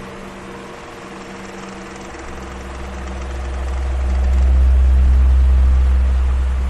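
Electric fan running: a steady motor hum over a rush of air. A deep rumble swells up about three seconds in and eases off again near the end.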